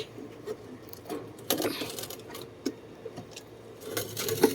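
Scattered light clicks, knocks and rattles from handling inside a pigeon loft cage, busier near the end.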